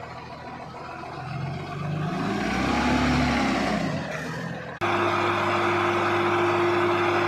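Heavy truck's engine running, its pitch rising and then falling as it grows louder. Nearly five seconds in it changes suddenly to a louder, steady drone.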